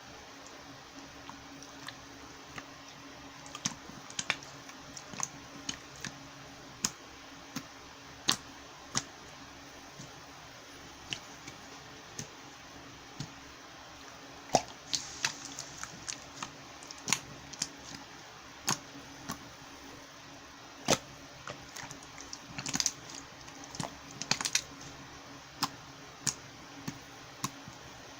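Slime being handled, squeezed and poked, giving irregular sharp clicks and pops from trapped air, some in quick clusters.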